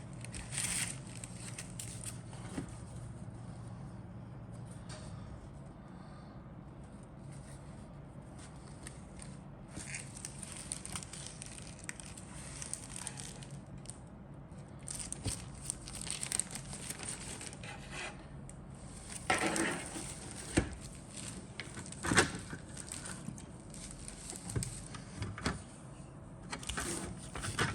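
Plastic packaging and kit parts being handled: crinkling and rustling with irregular clicks and light knocks, busier in the second half, over a steady low hum.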